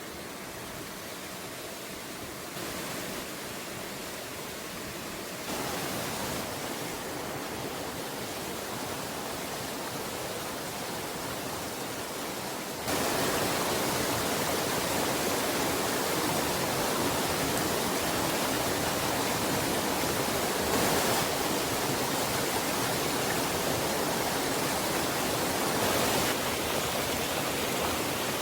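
Steady rushing hiss of a swollen valley stream and heavy rain. It gets louder in steps a few times and is loudest from about 13 seconds in.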